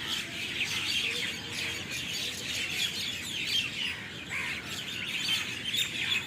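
A dense din of many birds chirping and calling at once as a large flock settles into a tree to roost for the night. The short calls overlap continuously, with no single bird standing out.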